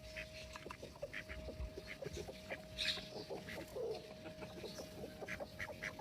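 Backyard chickens calling: many short, high peeps from chicks and soft calls from hens, with one lower, falling call about four seconds in. A steady faint tone runs underneath.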